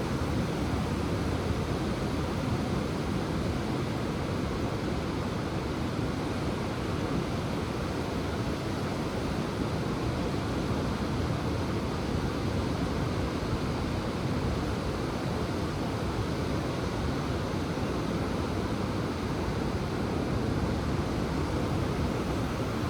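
Ocean waves and surf making a steady, low, unbroken rush, with no single wave standing out.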